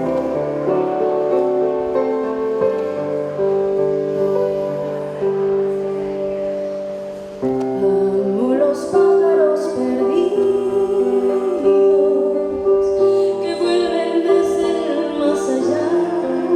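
Slow, tender music: a piano holds sustained chords, and about halfway through a woman's voice comes in singing over it, sliding up into her notes.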